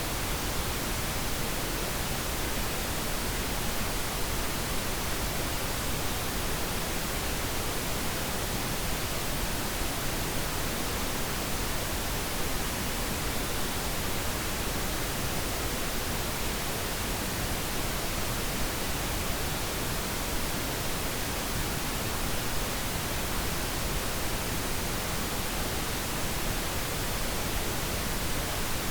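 Steady pink noise: an even, unchanging hiss across the whole range, with no breaks or events.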